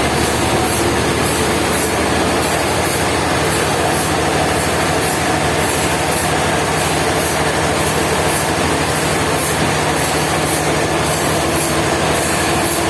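Sawmill saw running through a log: a loud, steady grinding rush of blade in wood, with a fast fine rattle.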